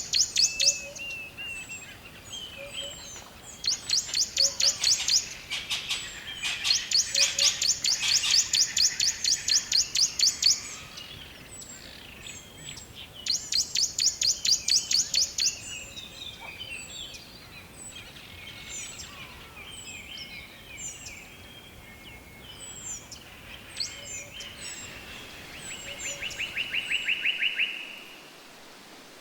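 Songbirds in a forest chorus. One bird repeats a rapid high trill of evenly spaced notes, each trill lasting a few seconds, four times in the first half. Short chirps from other birds are scattered throughout, and a lower-pitched trill comes near the end.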